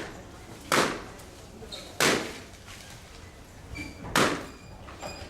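Three sharp bangs, about one to two seconds apart, each dying away quickly.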